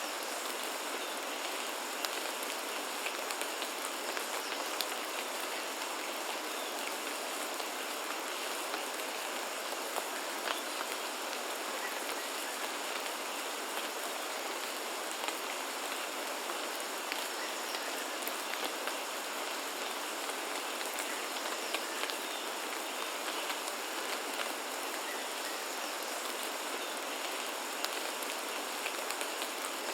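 Steady rain falling, with scattered sharp drops ticking through the even hiss.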